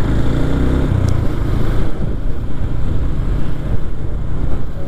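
Yamaha MX King 150's single-cylinder four-stroke engine running steadily while the motorcycle rides along, with wind rushing over the camera microphone.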